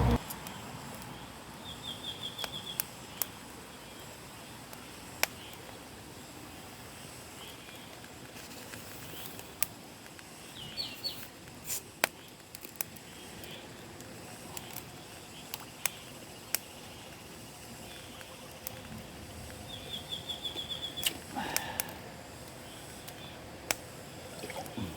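Outdoor ambience: a steady hiss, with a small bird's rapid high trill heard twice and a few scattered sharp clicks.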